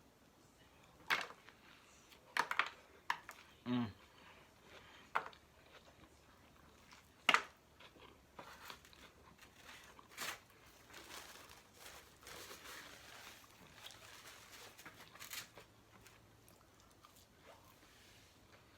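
Eating sounds: a string of sharp crinkles and clicks from takeout wrappers and packaging, a short low vocal hum about four seconds in, then a longer stretch of softer crinkling and chewing.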